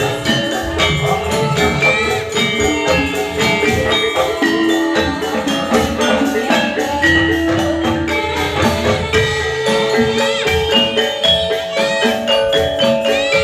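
Javanese gamelan music for a jathilan dance: struck metal bar and gong-chime instruments ring in a dense, steady rhythm over drumming, played loud through a sound system.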